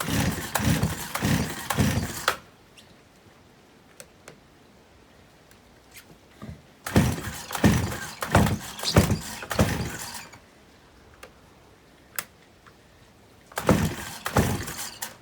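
Stihl 028 AV Super two-stroke chainsaw being pull-started three times, the engine cranking over in quick pulses each time without starting. The saw has just had its carburetor cleaned and will not fire.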